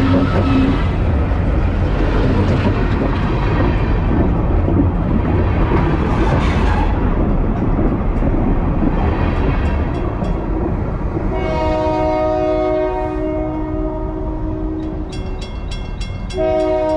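A freight train's cars rolling right over the track and past, a loud, dense rumble of wheels on rail. After about eleven seconds a locomotive horn sounds a long chord. A quick, regular high ticking follows, and the horn sounds again near the end.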